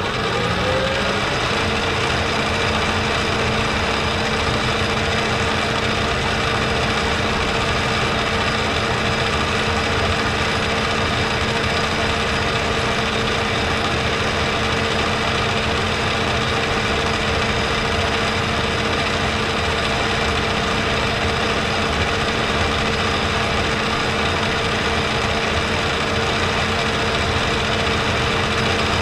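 Metal lathe starting up, its motor tone rising to a steady pitch in the first second, then running steadily while taking a light skim cut on a bushing to check for taper.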